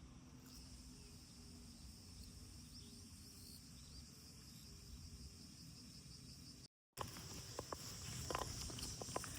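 Faint steady high-pitched insect drone in outdoor summer ambience. After a sudden cut about two-thirds of the way through, the ambience is louder and has scattered light clicks.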